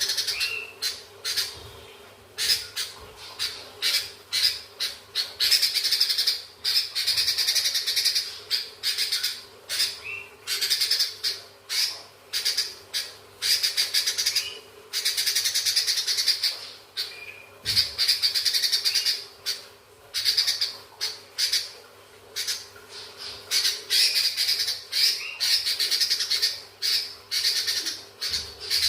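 Sooty-headed bulbul (kutilang) chattering in long, fast runs of chirps, with Eurasian tree sparrow calls mimicked into its song. It comes in bursts of a second or two, broken by short pauses, with an occasional clearer whistled note.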